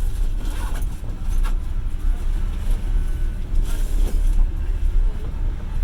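Passenger train carriage running on the rails: a steady deep rumble with a few scattered sharp knocks and rattles.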